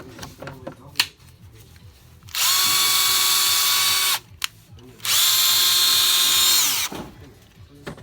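Bosch 35 FC cordless drill-driver run twice with no load, each run a steady high motor whine about two seconds long. The first stops abruptly, and the second winds down in pitch as the motor coasts to a stop. A few handling clicks come before the first run.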